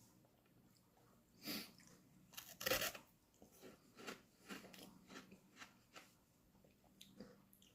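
A person biting into and chewing a homemade strawberry lemonade popsicle: a crunch about a second and a half in, the loudest crunch near the three-second mark, then a run of smaller crunching chews.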